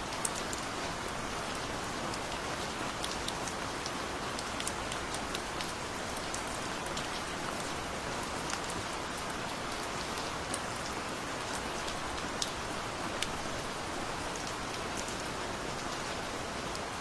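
Steady gentle rain: an even hiss of rainfall with scattered close drips ticking sharply on a surface.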